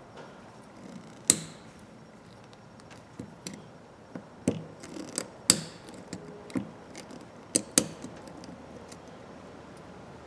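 Irregular sharp metal clicks and clacks as a 1/4-inch ratchet and its small parts are handled and taken apart, a few loud knocks among lighter ticks.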